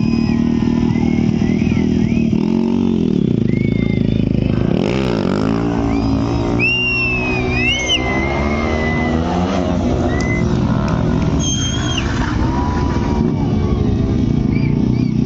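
Superbike engines running and revving, with the pitch sweeping up and down a few seconds in, over crowd voices.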